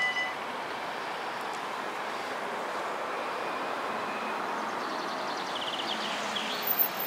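The level crossing's mechanical bells cut off right at the start, leaving steady outdoor rumble and wind noise with a train moving away. A couple of short, sharp knocks come near the end as the barriers finish rising.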